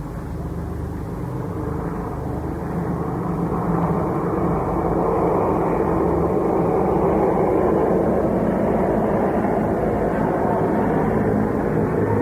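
Airplane engine passing overhead at an air show, growing louder over the first few seconds and then holding steady.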